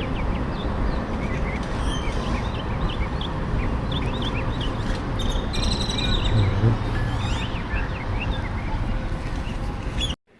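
Many small birds chirping over a steady low rush of outdoor background noise; the sound cuts off abruptly near the end.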